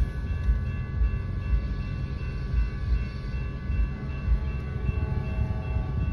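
CN freight train cars rolling past a road crossing, heard from inside a stopped car: a steady low rumble and rattle of wagons, with faint steady high ringing tones held above it.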